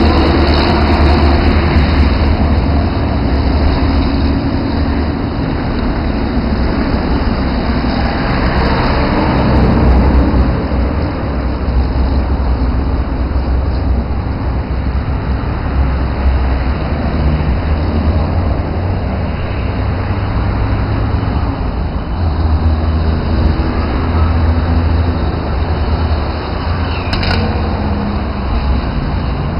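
Cessna 172 light aircraft's piston engine and propeller running on a low pass during a missed approach, loudest about ten seconds in, over a steady low rumble.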